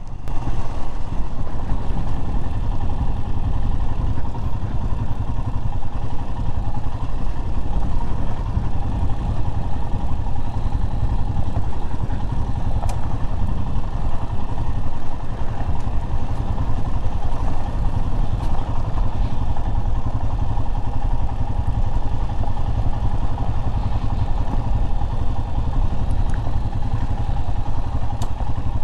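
Royal Enfield Himalayan's single-cylinder engine running steadily as the motorcycle is ridden down a steep, rough mountain road.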